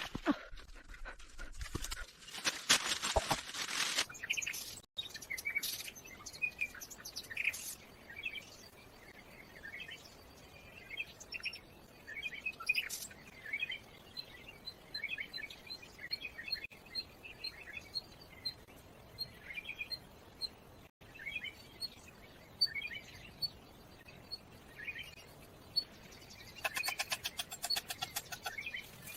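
Birds chirping and calling, with short chirps throughout and a high note repeated about twice a second through the middle. Twice, near the start and near the end, there is a short burst of fast rattling, louder than the birds.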